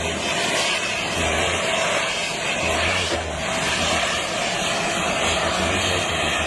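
Aircraft engines running steadily, a loud even rush with a constant whine.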